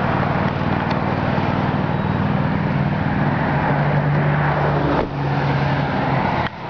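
Steady low running hum under a strong, even hiss, like a car engine idling, with a brief break about five seconds in.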